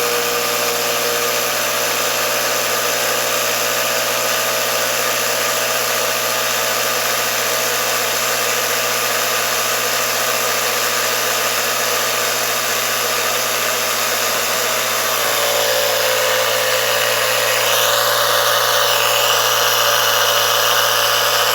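Small battery-powered air compressor, just repaired, running steadily while it pumps up a tractor inner tube. Its sound changes and grows a little louder about two-thirds of the way through.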